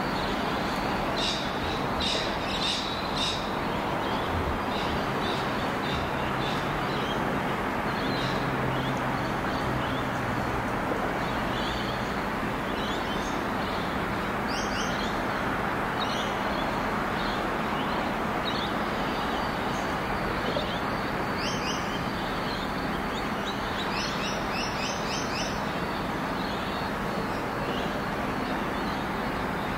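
Small birds chirping in quick, repeated clusters over a steady low rumble from the distant 81 class diesel locomotive of an approaching ballast train.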